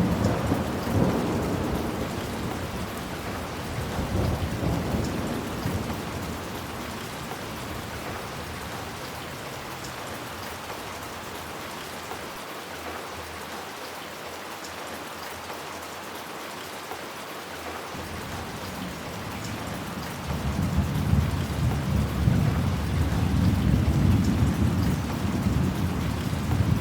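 Steady rain with two long rolls of thunder: one breaks suddenly at the start and dies away over several seconds, and a second, louder one builds from a little past halfway and keeps rumbling to the end.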